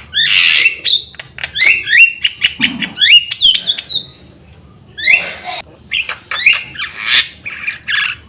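Javan myna (jalak kebo) singing vigorously: quick runs of short rising whistles mixed with harsh squawks, a break about four seconds in, then more calls.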